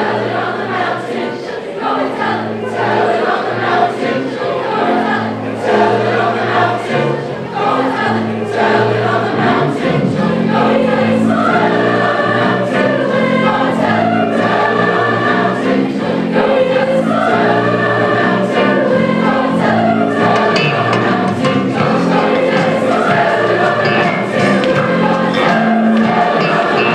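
A school choir singing with musical backing, growing fuller and louder about ten seconds in.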